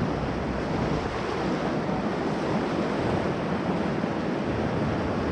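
Whitewater of the Ocoee River rushing steadily around a raft.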